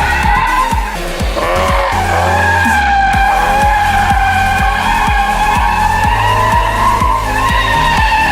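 Car tires squealing continuously as a car spins donuts, with the engine revving hard and rising in pitch about a second in. Music with a steady bass beat plays underneath.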